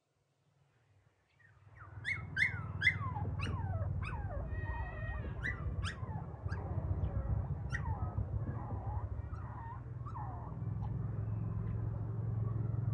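A puppy whimpering and whining in short, high, falling cries, several in quick succession about two seconds in, then scattered ones, over a steady low hum.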